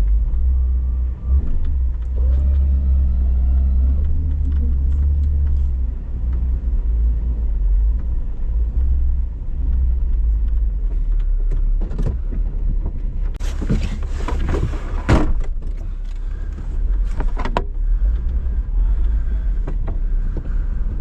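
Vehicle engine running with a steady low rumble, its pitch rising and falling a little between about two and six seconds in. About two-thirds of the way through, a loud hiss with clicks comes and goes for about four seconds.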